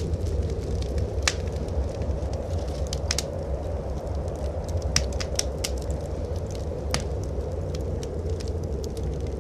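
Wood fire crackling in a fireplace, with about seven sharp pops scattered through it, over a steady low rumble of blizzard wind.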